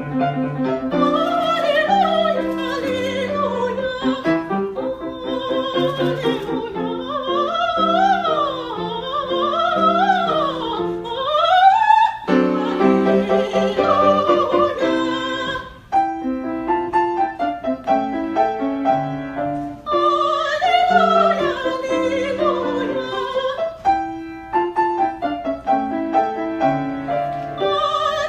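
Classical operatic solo voice singing with wide vibrato over piano accompaniment, with fast rising and falling runs about a third of the way through.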